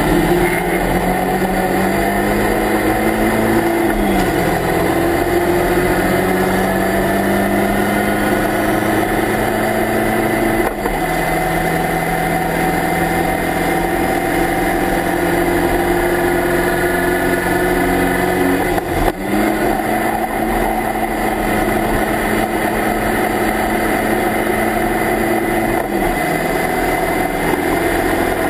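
Locost Seven-style race car's engine heard from the open cockpit under full acceleration, the revs climbing and dropping back at upshifts about 4 and 11 seconds in as it goes from second to fourth gear. It then runs at high revs at speed, with a brief lift about 19 seconds in and another drop in revs near the end.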